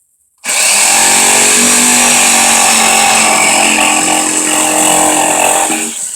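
DeWalt power tool running at full speed, starting about half a second in, holding a steady motor whine for about five seconds, then cutting off near the end.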